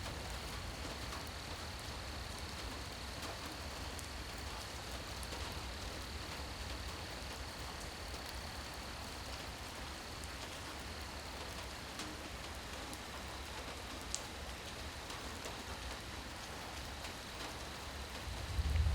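Steady rain falling and pattering on surfaces, an even hiss with no pauses. A faint thin high tone sits under it for the first half, and a low rumble starts to swell right at the end.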